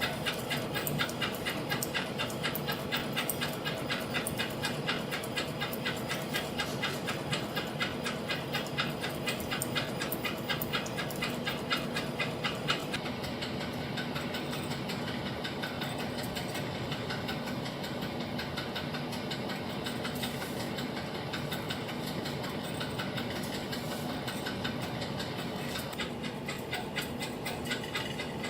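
Spring-making machinery with its automatic wire pay-off stand running: a rapid, even clicking over a steady hum. The clicking softens about halfway through, leaving a steadier machine sound.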